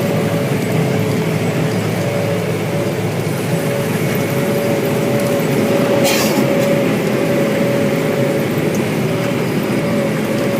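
Cameco 3510 sugar cane harvester and John Deere 6170R tractor with its haul-out bin running steadily while harvesting cane: a low engine drone with a steady, slightly wavering whine on top. A short hiss comes about six seconds in.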